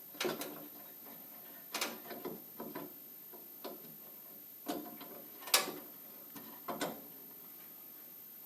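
Irregular mechanical clicks and knocks of car parts being handled, about nine in all, the loudest about five and a half seconds in; after about seven seconds only faint background remains.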